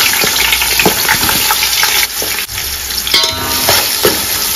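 Onions sizzling as they fry in hot groundnut oil in a biryani pot, being stirred, with a few short clicks of the utensil against the pot.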